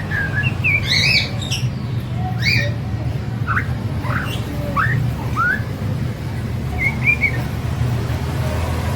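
Young white-rumped shama (murai batu trotol) singing: a run of short whistled notes and quick rising sweeps, with gaps between phrases. A steady low hum runs underneath.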